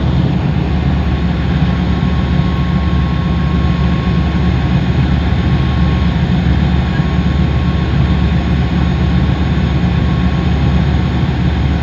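Thames Clipper (Uber Boat) passenger catamaran's engines running steadily under way: a loud, even low drone with a hiss over it.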